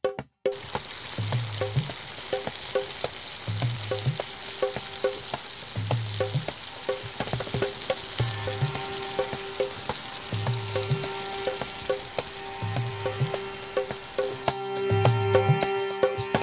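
Tomatoes and chicken in a spiced gravy sizzling in hot oil in a frying pan, stirred with a silicone spatula, over soft background music with a steady beat. The sizzle fades near the end and the music comes forward.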